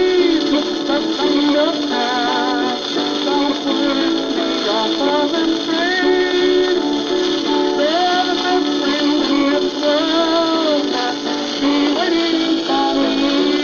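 An old country record playing on a record player: a male voice singing with a wavering vibrato over steady instrumental accompaniment. The sound is thin, with the treble cut off.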